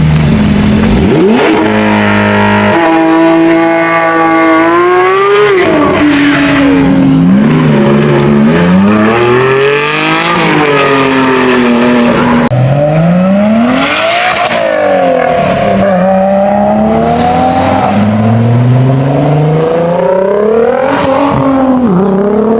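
Several car engines revving and accelerating, their pitch climbing and dropping again and again, with engines overlapping at times.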